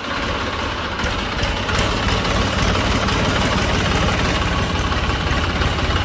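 Mini tractor's small engine running steadily with a fast, even rhythm, a little louder from about a second in.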